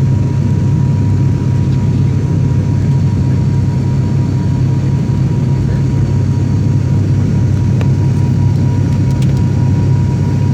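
Airliner cabin noise during the landing: a loud, steady low rumble of engines and airflow, with a thin steady tone above it.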